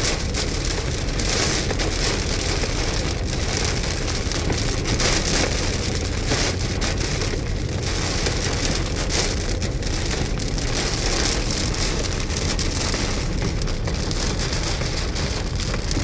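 Heavy rain pelting a moving car, heard from inside the cabin: a dense, steady hiss of drops with a low road rumble underneath.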